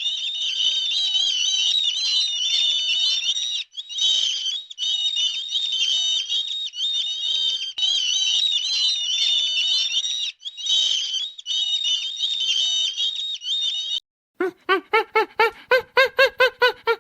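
A dense chorus of high-pitched chirping from many small birds, with a few brief breaks. About fourteen seconds in, it gives way to a rapid series of lower-pitched calls, about four a second.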